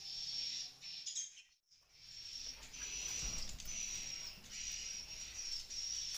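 Swiftlet calls inside a swiftlet house: a high, repeated chirping, each call lasting up to about a second with short breaks, dropping out briefly about a second and a half in.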